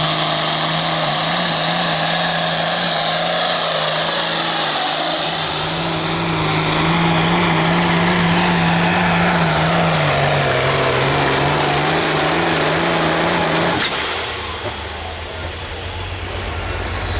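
Pro field class pulling tractor engine running hard at high revs under load, its pitch wavering as it pulls the sled. About three-quarters of the way through it suddenly backs off, leaving a lower idle and a high whistle falling away in pitch.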